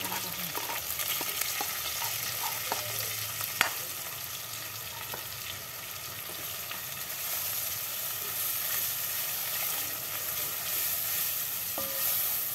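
Curry spice paste frying in hot oil in a pot, sizzling steadily while a spatula stirs and scrapes it, being cooked until fragrant. A sharp knock of the spatula against the pot about three and a half seconds in, with a few lighter ticks.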